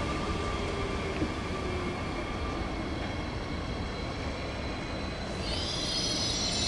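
SBB double-deck electric train running slowly through the station, a steady low rumble under a whine that falls in pitch and fades in the first two seconds. About five seconds in a high-pitched wheel or brake squeal sets in and grows louder.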